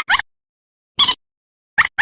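Lure-call recording of a mandar, a bird of the rail family: short, sharp call notes, one at the start, one about a second in, and a pair of quick notes near the end, with dead silence between.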